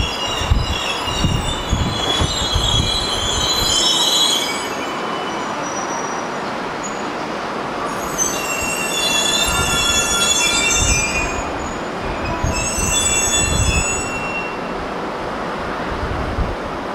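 E2 series Shinkansen train moving slowly through the station tracks with a low rumble, and high-pitched squealing from the wheels that comes and goes in three spells.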